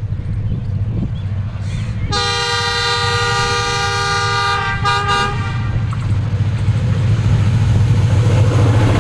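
Diesel locomotive horn of a freight train sounding one blast of about three seconds, starting about two seconds in, with a brief dip just before it stops. Under it the locomotive's engine and the train run steadily, growing louder toward the end as the train approaches.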